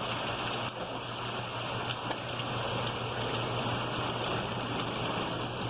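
Heavy rain pouring down: a steady, even hiss of falling and running water.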